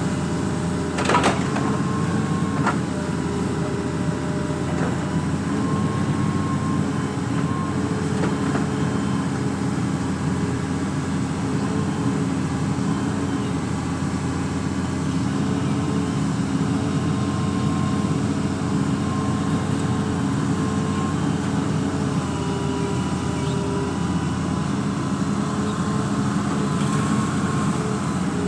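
Engine of a drain-cleaning machine running steadily, with a sharp knock about a second in and an on-off whine over the drone.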